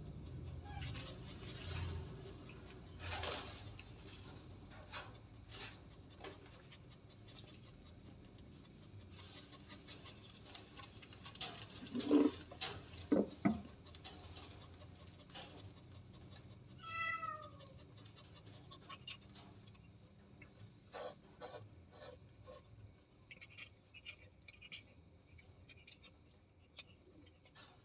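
A cat meowing once, a short call falling in pitch, about two-thirds of the way in. There are two louder short low sounds a little before it, and faint rustling and clicks.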